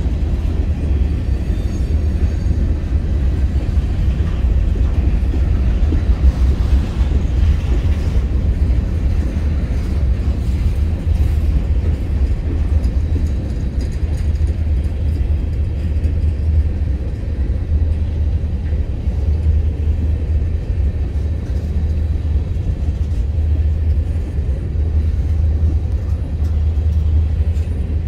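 Covered hopper cars of a CSX grain train rolling past, their wheels giving a steady rumble on the rails.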